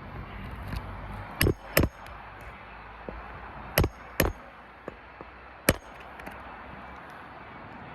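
Hammer driving roofing nails into a replacement asphalt shingle: sharp strikes in pairs, two about a second and a half in, two near the middle and a single one later, with a few lighter taps between.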